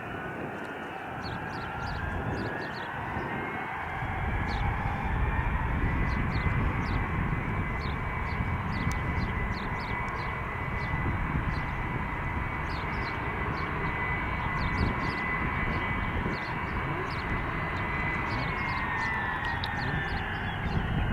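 Four Pratt & Whitney JT3D turbofans of a Boeing 707-300C spooling up to takeoff power for the takeoff roll. A high engine whine rises and then holds steady, with a deep rumble that grows louder over the first few seconds. Near the end the whine drops in pitch.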